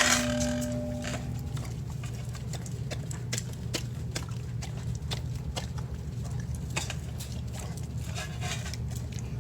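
A dog eating wet canned dog food from a bowl: irregular wet smacks and clicks of chewing and licking. A brief pitched tone sounds in the first second and a half, over a steady low hum.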